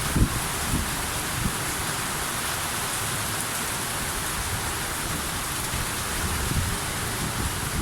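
Steady rain falling, an even hiss, with a few low bumps near the start.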